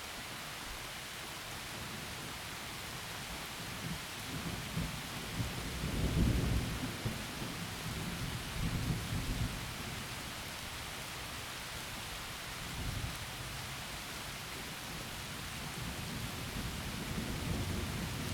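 Steady heavy rain falling through forest trees, with rolling thunder rumbling in several low swells: one builds from about four seconds in and peaks a couple of seconds later, a smaller one comes near the middle, and another builds near the end.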